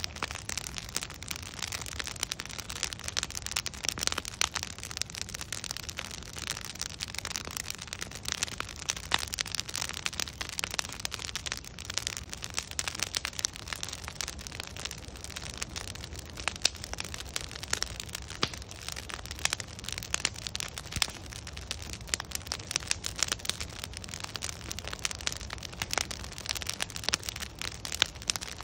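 Wood fire crackling steadily: a dense stream of small pops and snaps from burning logs over a soft low rumble of the flames.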